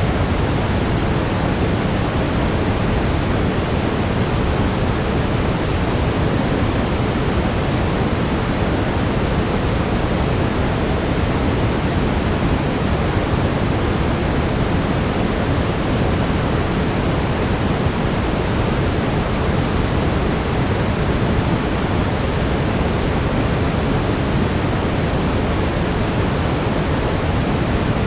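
Steady synthetic brown noise: an even, deep hiss with most of its weight in the low end, unchanging throughout.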